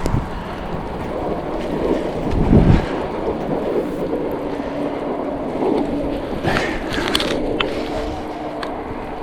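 Lectric XPeak fat-tire e-bike riding uphill on a snowy road under pedal assist, tyres rolling over snow with wind buffeting the microphone, strongest in a gust a couple of seconds in. From about three seconds in a steady low whine, likely the hub motor, runs under it, with a few short clicks or rattles near the end.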